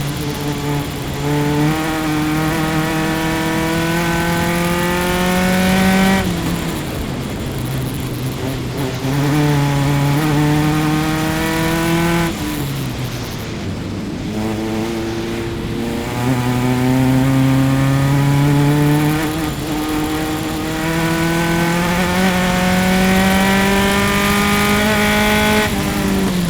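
Onboard sound of a single-seater formula race car's engine at racing speed. It climbs in pitch through long pulls, each cut short by a sudden drop as it shifts or lifts, with a stretch of falling, lower revs about halfway through, as when braking and downshifting for a corner.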